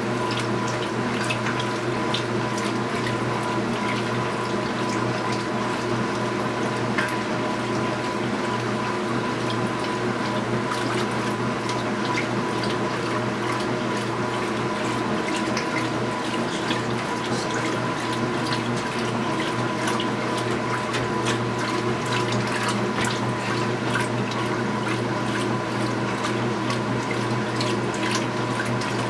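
2015 Speed Queen 8 Series top-load washing machine mid-cycle: water running and splashing in the tub over a steady motor hum.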